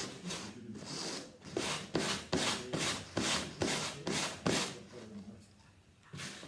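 Henry vacuum cleaner filter being scrubbed during washing: rhythmic rubbing strokes, about three a second, that stop briefly near the end of the run and then start again.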